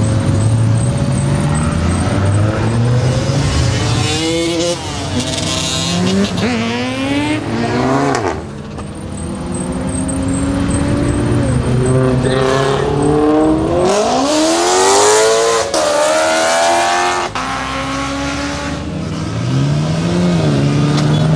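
Car engines revving hard and accelerating past, their pitch climbing and dropping several times over, the loudest run about two-thirds of the way through.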